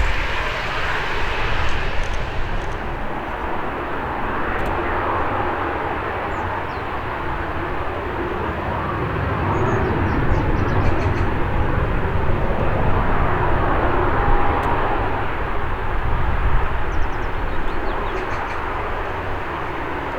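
ATR 72-600 turboprop at takeoff power, its two Pratt & Whitney PW127 engines and propellers making a broad, rushing drone that swells about halfway through as it passes. Strong wind rumbles on the microphone underneath.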